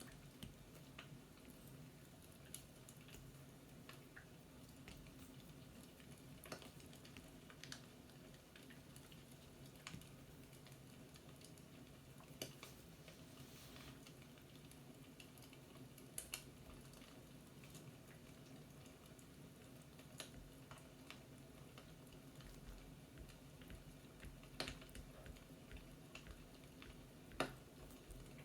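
Near silence: a faint low hum with scattered, irregular soft clicks and crackles every few seconds.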